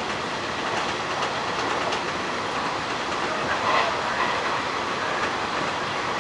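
Hanshin 1000-series electric train running at speed, heard from inside the front car: a steady rumble of wheels on rail with a light clickety-clack, a little louder about halfway through.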